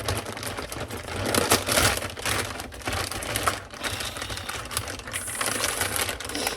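Plastic food packaging being opened and handled: rapid, irregular crackling and clicking.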